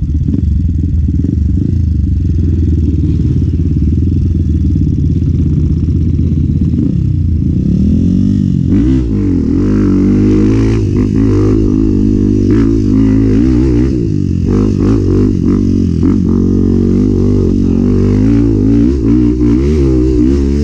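Enduro dirt bike engine running steadily at low revs, then from about eight seconds in revving up and down over and over, with some clattering.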